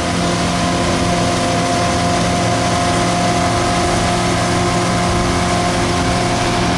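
Motorboat engine running steadily under way, a constant engine drone over a wash of wind and water noise.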